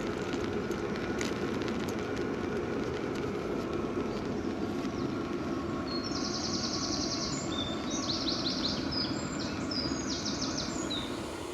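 A songbird singing several quick, high, trilled phrases over a steady rushing background noise, with a few faint ticks in the first couple of seconds.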